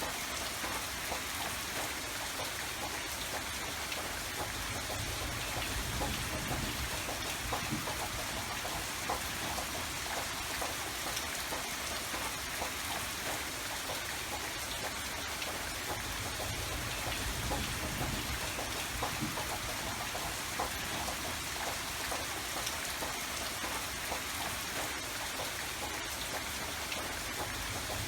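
Steady rain falling, many separate drops ticking on surfaces, with a low rumble that swells and fades at times.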